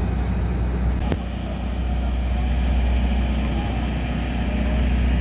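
Steady low rumble of a moving vehicle, with a brief click about a second in.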